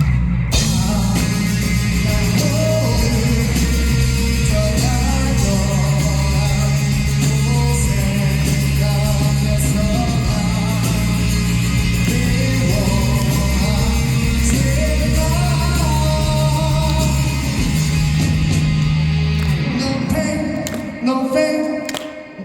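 Live rock band playing, with a sung lead vocal over electric guitar, bass and drums in a large hall. About twenty seconds in, the full band drops away and the singing carries on more thinly.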